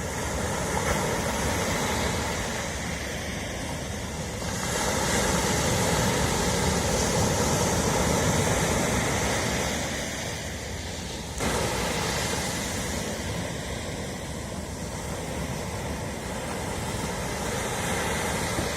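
Ocean surf washing onto a shore: a steady rush of breaking waves that swells for several seconds, eases off, then comes back in suddenly about eleven seconds in.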